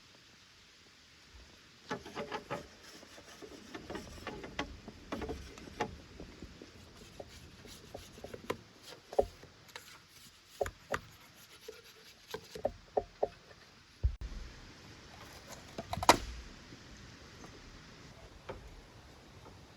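Irregular knocks, taps and rustling of hands-on work with sticks and gear, with the loudest knock about 16 seconds in.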